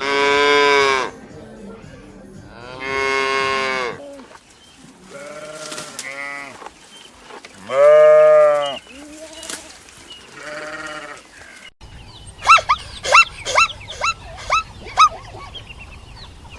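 A series of five drawn-out livestock calls, each about a second long, from cattle or sheep. About three-quarters of the way through they give way to rapid, high-pitched yips of a young dog, about two a second.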